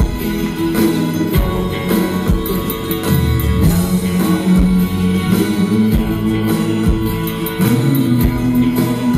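Live pop-rock band playing through a PA: guitar over held chords, with drum hits landing about once a second.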